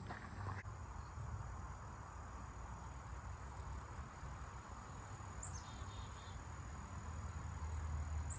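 Crickets trilling steadily at a high pitch, with a short descending chirp about five and a half seconds in, over a low rumble.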